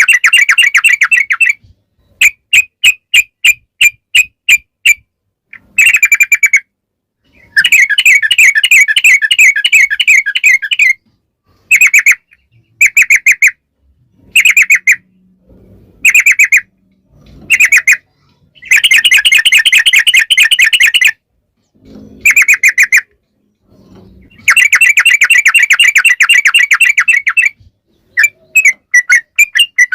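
Yellow-vented bulbul (trucukan) singing loudly in rapid bubbly rolling phrases. Some phrases run as long trills of about three seconds, others as short bursts or quick runs of separate notes, with brief pauses between them.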